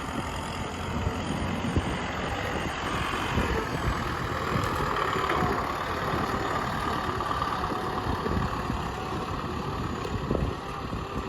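Tractor engine running steadily as the tractor drives along.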